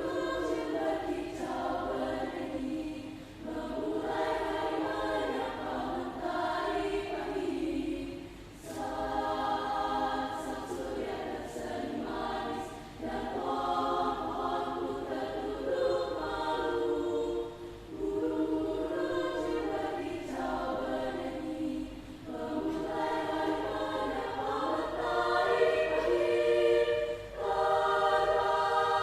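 School choir singing a choral piece in sung phrases of a few seconds each, with short breaks for breath between them.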